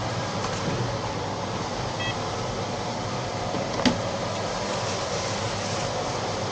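Steady background hum and rumble, with a short electronic beep about two seconds in and a single sharp click near four seconds.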